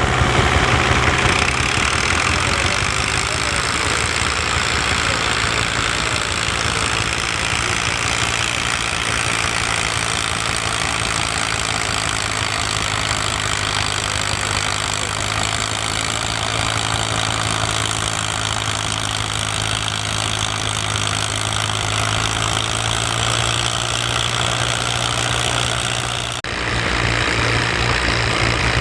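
Vintage tractor engine running steadily, with a dense low firing beat. About 26 seconds in, the sound cuts abruptly to another engine running much the same way.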